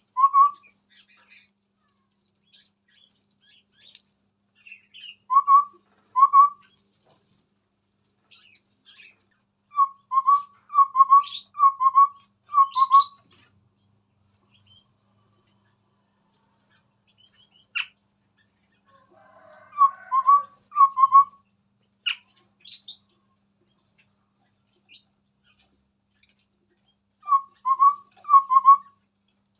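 Chestnut-rumped babbler calling: short runs of two to five low, whistled notes, repeated in bursts several times. Faint high chirps sound throughout, and there are two sharp ticks in the middle.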